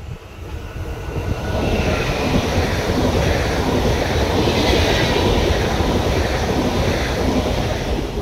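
Electric multiple unit passenger train passing close by on the track: wheel and rail rumble building over the first couple of seconds, holding loud while the cars go by, then easing off near the end.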